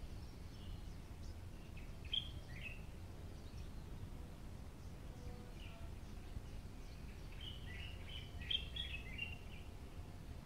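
Small birds chirping: a short call about two seconds in and a quick cluster of chirps from about seven to nine seconds, over a steady low background rumble.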